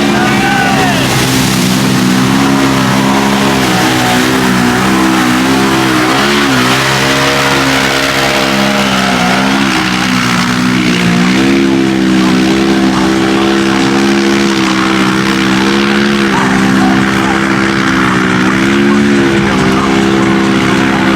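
Off-road vehicle engine run hard at sustained high revs through mud, its pitch dipping and recovering several times as it loads up, over a steady hiss.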